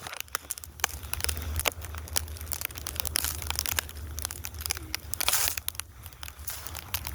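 Snow crunching and crackling close to the phone's microphone, a rapid irregular run of crisp crackles with a louder rush about five seconds in, over a low rumble.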